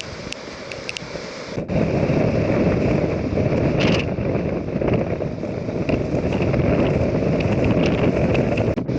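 Strong wind buffeting the microphone: a loud, rough low rumble that surges in gusts, louder after a short break about two seconds in. A few faint sharp ticks sound in the first second.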